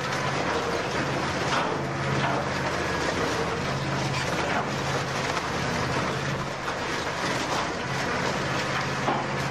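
Industrial scrap-metal shredder tearing up a car body: a steady low machine drone under a dense grinding wash, with irregular knocks and bangs of metal.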